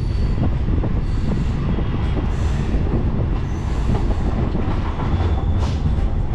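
Electric local train (EMU) running along the track: a steady heavy rumble with scattered wheel-on-rail clicks and a faint high whine.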